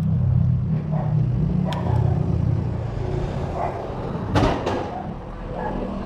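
Road traffic: motor vehicle engines running in a steady low rumble, with two sharp knocks close together about four and a half seconds in.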